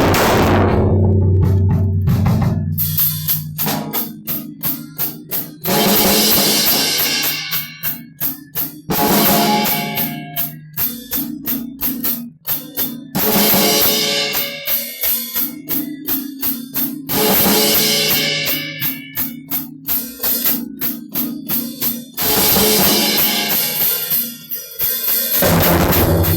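Drum kit played solo: a steady run of rapid drum strikes, loud, with a cymbal crash ringing out every three to five seconds.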